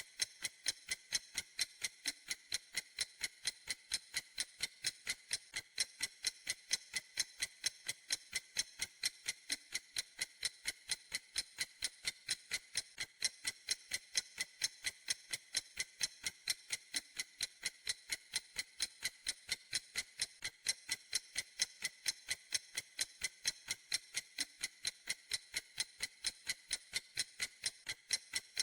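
A clock ticking in a steady, even rhythm of light, crisp ticks that never changes pace.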